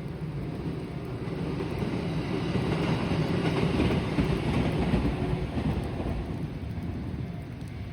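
A train passing on the rails, its rumble building to a peak about halfway through and then fading away.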